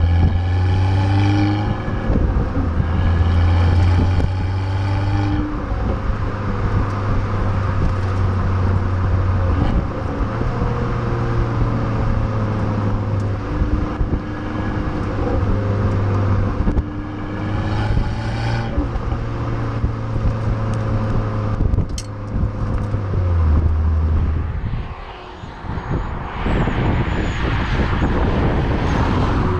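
Fiat Abarth 595's tuned 1.4 turbo four-cylinder engine running as the car is driven, its pitch rising and falling with the revs, over road noise. A single sharp click about 22 seconds in.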